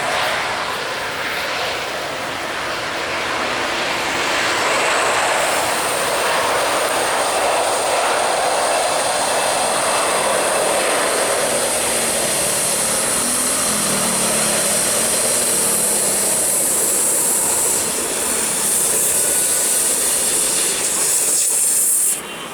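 Jet airliner engines, a loud rushing noise with a high whine, swelling about four seconds in and holding, then cutting off suddenly near the end.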